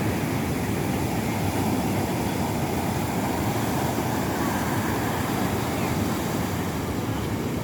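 Rough sea surf breaking and washing onto a beach: a steady, deep wash of waves without let-up.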